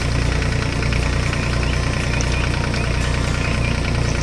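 Tractor engine sound effect running steadily, with a fast low knocking throb.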